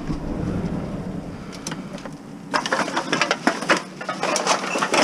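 Empty bottles and cans being handled, with a dense clatter of clinks and rattles that starts about halfway through and gets louder near the end.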